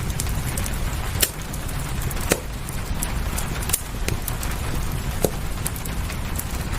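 Wood fire crackling, with scattered sharp pops and several louder snaps, over a steady bed of rain and low rumble.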